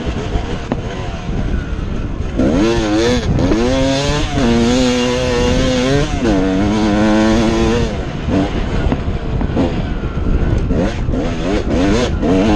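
Two-stroke Yamaha YZ250 dirt bike engine revving under way: its pitch climbs about two seconds in, holds high, dips briefly and climbs again, then falls off about eight seconds in, over a steady rushing noise.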